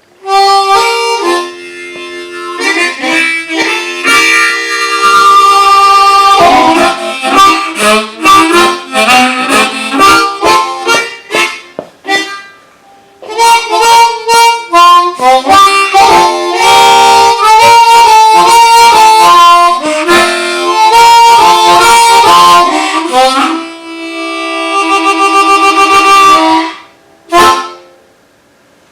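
Diatonic harmonica played solo in a blues style, with chords and single notes and a short pause about halfway. Near the end a held note warbles rapidly before the playing stops.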